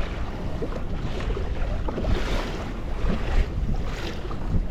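Strong wind buffeting the microphone with a steady low rumble, and choppy lake water slapping against a kayak's hull, with a few short hissing swells.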